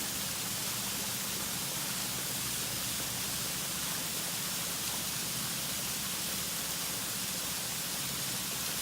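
Waterfall rushing steadily, a dense even hiss with a faint low hum underneath.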